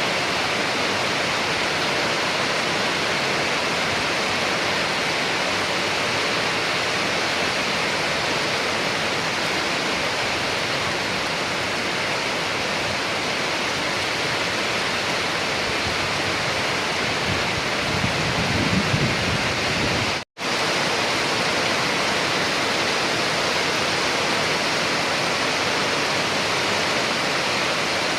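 Steady, dense rainfall. About two-thirds of the way through there is a brief low rumble, and just after it the sound cuts out to silence for a split second before the rain resumes.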